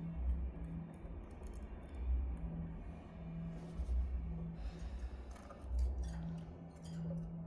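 Pet lovebirds making short, sharp clicking chirps, scattered mostly through the second half, over a low hum that swells about every two seconds.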